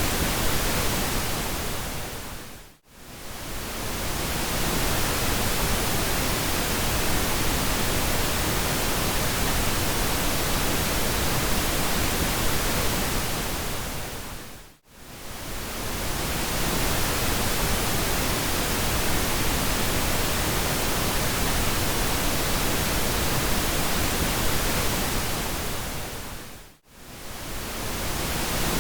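Steady pink noise, an even hiss with a soft low rumble. It fades down to near silence and swells back up three times, about twelve seconds apart.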